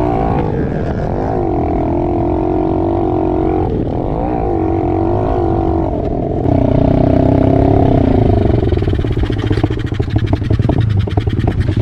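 110cc pit bike engine revving up and down as it is ridden, its note rising and falling several times. About six and a half seconds in it gets louder, and it turns rough and choppy over the last few seconds.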